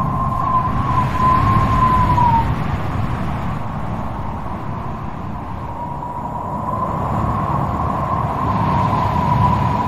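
Wind blowing hard with a low rumble and a wavering, whistling howl that dies away about two seconds in and comes back a few seconds later.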